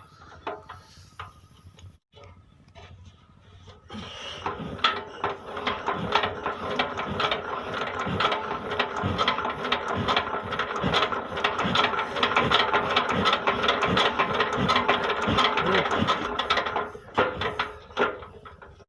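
Single-cylinder Peter diesel engine turning over with a fast, even knocking beat that starts about four seconds in and stops near the end.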